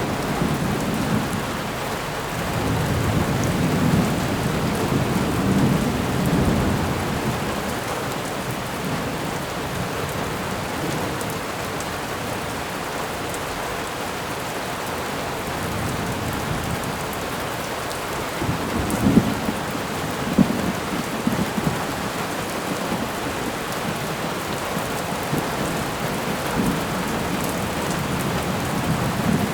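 Thunderstorm: steady heavy rain with low thunder rumbling a few seconds in and again about two-thirds of the way through, where it is loudest.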